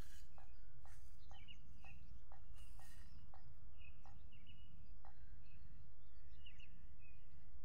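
Birds chirping in short calls over a steady low rumble, with a soft tick repeating about twice a second.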